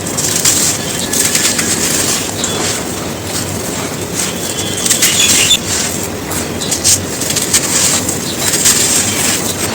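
Dry, gritty cones being crushed and crumbled: a continuous, dense crunching crackle of many small breaks.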